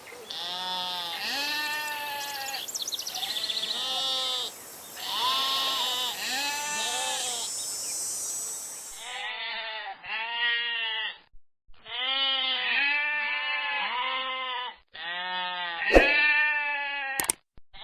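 Domestic sheep and goats bleating, a run of separate wavering calls one after another, with a change of recording about halfway through. A sharp click near the end.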